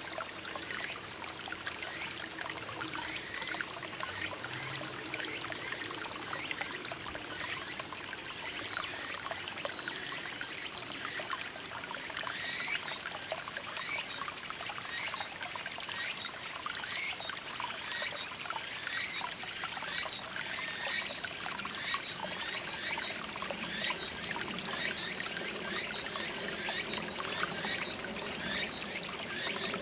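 Small mountain stream trickling and babbling steadily over stones, with a constant high-pitched buzz above it and a faint rapid pulsing at the very top from about halfway in.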